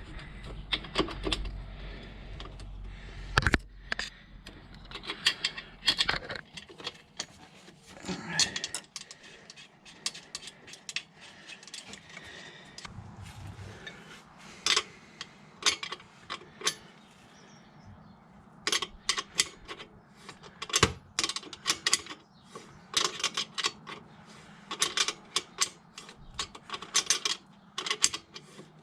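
Hand tools and metal exhaust parts clinking, tapping and knocking at irregular intervals while an exhaust section is bolted up, with a light ratcheting clatter among the knocks.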